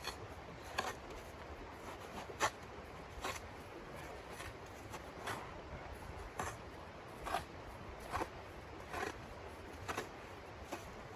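A steady run of short crunching or scraping sounds, about one a second, over a steady background hiss.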